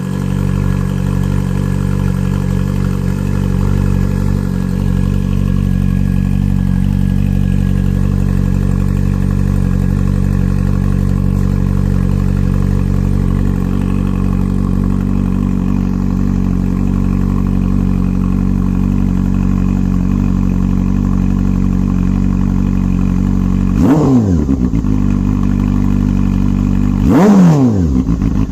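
Honda CB400 Super Bore's inline-four engine idling steadily through a GP-style exhaust with the baffle removed. Near the end the throttle is blipped twice, a few seconds apart, with the revs rising sharply and dropping back to idle each time.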